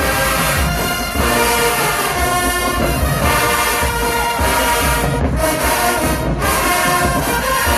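HBCU marching band playing loudly: a full brass section with bass drums and percussion keeping a steady beat.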